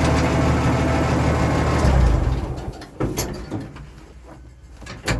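Oliver 1650 tractor engine running, then shut off about two seconds in and dying away, followed by a few sharp clacks.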